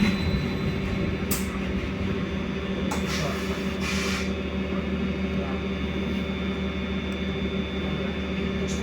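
Inside a BKM-43300D trolleybus, stopped just after a falling motor whine dies away: a steady electrical hum from the onboard equipment, with a few short hisses about one and a half, three and four seconds in.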